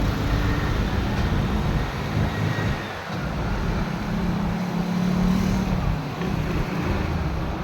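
Road vehicle noise: a motor vehicle running and passing over a steady low rumble, with an engine tone that swells about halfway through.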